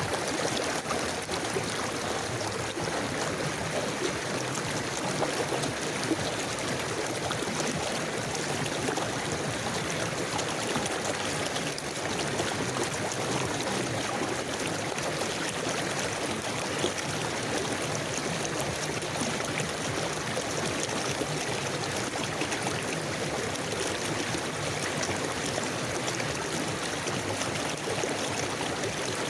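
A river flowing steadily over stones, a continuous rushing and babbling of water.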